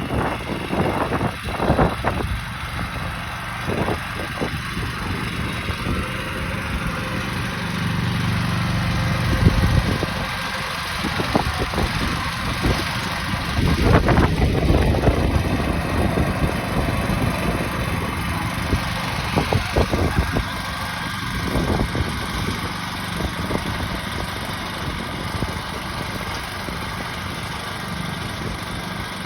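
Grillo walk-behind tractor's engine running steadily, with scattered short knocks and clatter.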